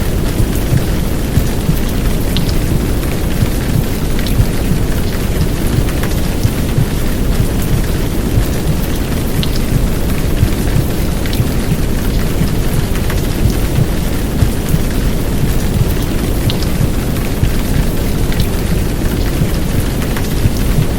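Heavy downpour of rain over a steady, deep rumbling noise bed, with scattered sharp drop ticks.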